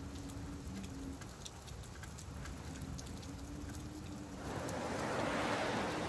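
Rain on a beach: steady pattering with scattered drop ticks over a low surf rumble, and a faint steady hum underneath. About four and a half seconds in, a wave washes in and becomes the loudest sound.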